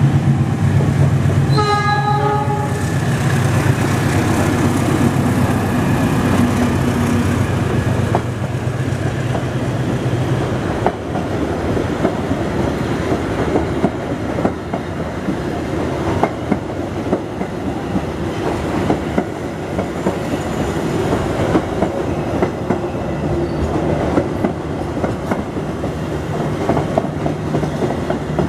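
Diesel train passing close by: a short horn blast about two seconds in over the steady drone of the diesel engine, then the carriages' wheels clacking over the rail joints as the rest of the train goes by.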